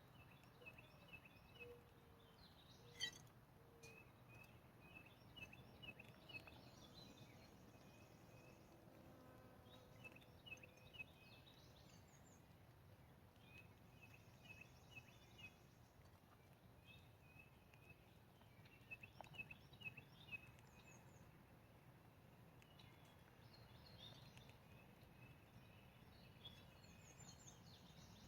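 Faint songbirds chirping and singing in short repeated phrases, with one sharp click about three seconds in.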